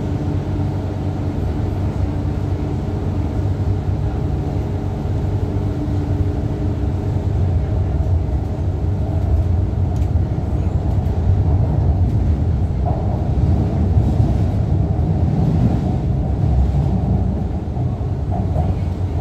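MTR Kwun Tong line train running between stations: a steady low rumble of wheels on rail with a constant motor hum, growing louder through the middle and easing a little near the end.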